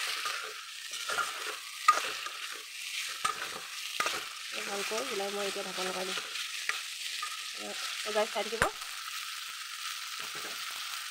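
Crab pieces frying in oily masala in a metal kadai, sizzling steadily while a steel spoon stirs and scrapes the pan in repeated strokes. A brief low hum sounds about halfway through.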